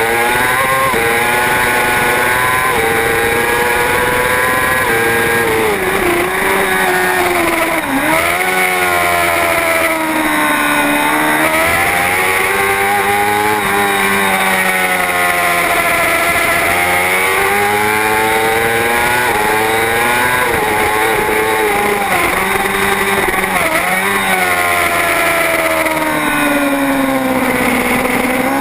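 Superbike racing motorcycle engine at full race pace, loud and continuous. Its pitch sweeps up and down throughout, dropping sharply several times and climbing again, with a steady rush of wind.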